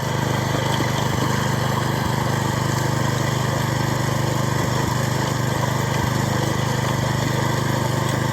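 Small engine of a restored Snapper rotary tiller running steadily at an even speed, with a rapid, regular firing pulse.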